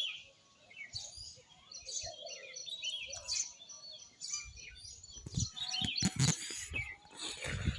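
Small birds chirping in scattered short calls. A few low knocks come near the end.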